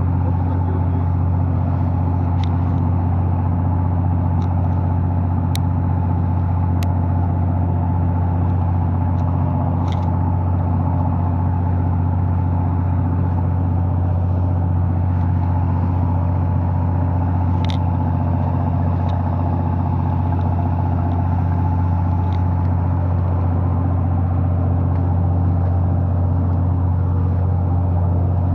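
Fishing boat's engine running steadily with a loud, even low hum.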